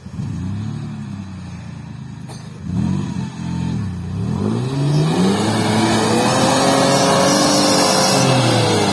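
Off-road vehicle engine revving hard, its pitch climbing and dropping several times as the driver works the throttle, with a rushing hiss joining in about halfway through as it pushes under heavy load.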